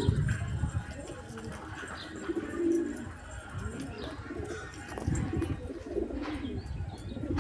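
Domestic pigeons cooing: several low, rolling coos, with a couple of soft thuds about five and six seconds in.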